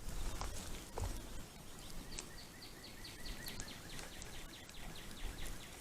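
A songbird singing a rapid trill of short repeated notes, about six a second, that starts about two seconds in and lasts some three seconds. Before it, a low wind rumble and a couple of faint clicks.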